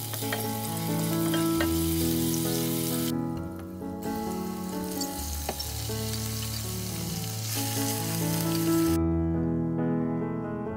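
Chopped onion, then diced nopales, frying in hot oil in a pan: a steady sizzle, with a wooden spoon stirring and scraping through it. The sizzle breaks off briefly about three seconds in and again near the end.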